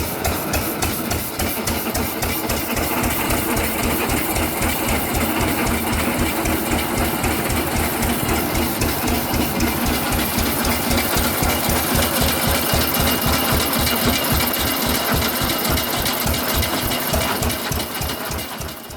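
1917 Fairbanks Morse Model Z 6 hp hit-and-miss engine running, a rapid, even chugging with no misses, firing every cycle under load. It fades out near the end.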